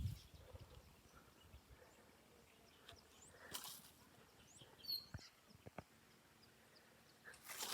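Faint outdoor ambience: scattered short, high bird chirps, with a couple of brief rustles and a few light clicks.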